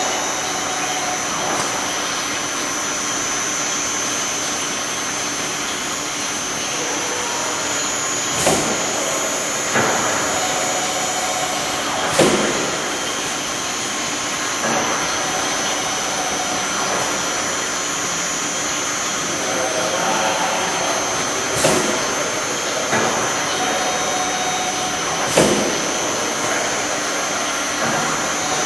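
MEP Tiger 370 CNC automatic metal-cutting saw running, a steady mechanical noise with a thin high whine, with a sharp knock every few seconds as it works through its cycles.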